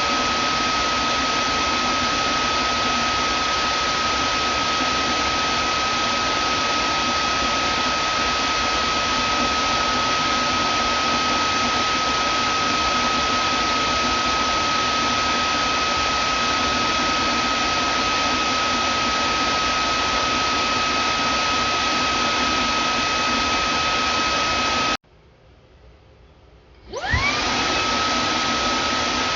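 Vacuum cleaner motor running with a steady rushing noise and a high whine. It cuts out suddenly about 25 seconds in, then starts up again about two seconds later, its whine rising quickly to full pitch as the motor spins up.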